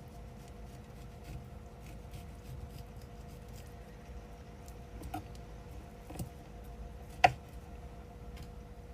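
Quiet food-preparation handling: a few soft knocks and clicks of fruit, a small knife and a cup being worked, the sharpest knock about seven seconds in, over a steady faint hum.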